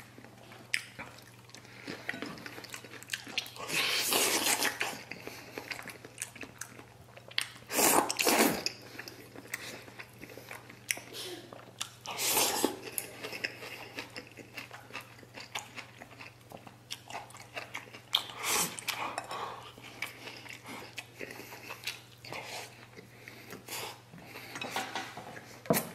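Close-up eating sounds: chewing and smacking on braised pork and rice, with chopsticks clicking against a ceramic bowl and a few louder bursts as rice is shovelled into the mouth.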